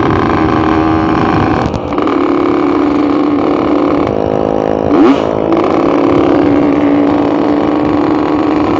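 Yamaha RX-King's single-cylinder two-stroke engine running steadily under way. The note drops briefly just before two seconds in, and there is a short rise in revs, the loudest moment, about five seconds in.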